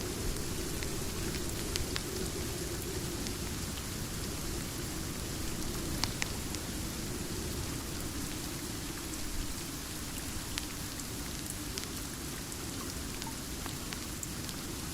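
Steady rain falling, with a fireplace crackling through it in scattered sharp pops.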